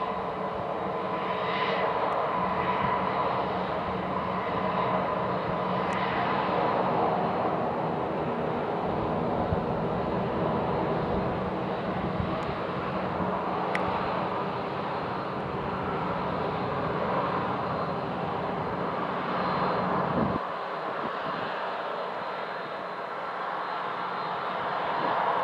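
Jet airliner engines running at low thrust as the aircraft taxis: a steady whine over a rumble. The low rumble drops away abruptly about twenty seconds in.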